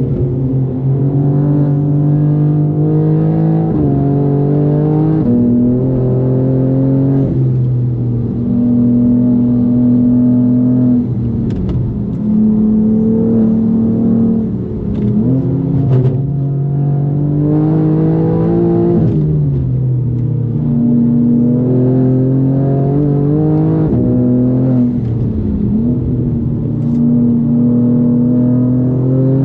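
BMW M4 (G82) twin-turbo straight-six, tuned to about 630 wheel horsepower, under hard driving: the engine note climbs through each gear and drops in steps at the shifts, over and over.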